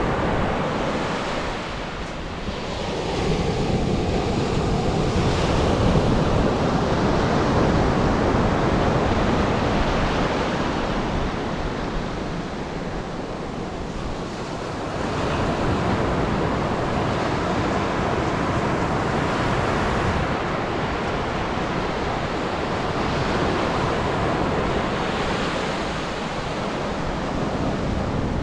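Atlantic surf breaking and washing up a sandy beach, a continuous rush that swells and eases in long surges, with wind on the microphone.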